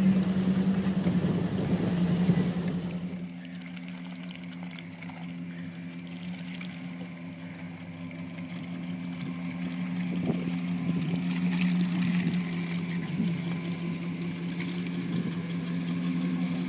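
A vehicle's engine running loudly, heard from inside the cab, for the first three seconds, then after an abrupt cut the Jeep Grand Cherokee's V8 running steadily at low revs as it crawls up a snowy trail, growing louder as it comes close.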